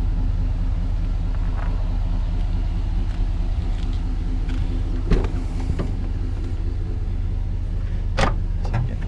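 A vehicle engine idling: a steady low rumble, with two sharp clicks about five and eight seconds in.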